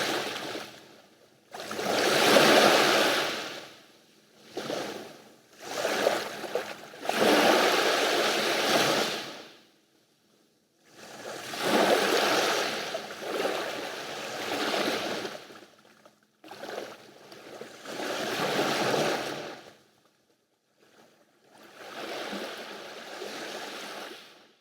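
Sea waves breaking and washing up a beach, surge after surge, each lasting a second or two with short quiet gaps between, until the sound cuts off suddenly at the end.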